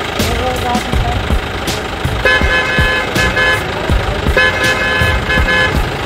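Car horn honking in a run of short repeated toots, starting about two seconds in, over a steady low engine noise.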